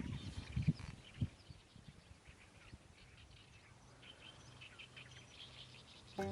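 Faint outdoor ambience with small birds chirping, their short high chirps clearest about four to five seconds in; a few low knocks come in the first second or so.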